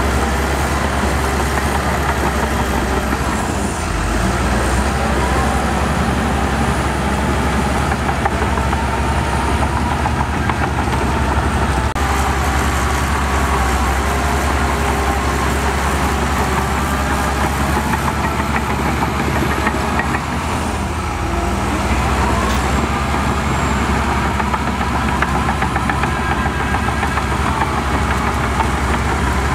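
Heavy diesel earthmoving machinery running steadily, with the engine note dipping briefly about 4 seconds in and again about 21 seconds in.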